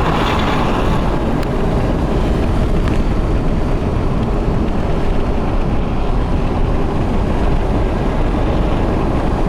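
Steady engine and tyre road noise of an SUV driving on a snowy, barely plowed road, heard from inside the cabin.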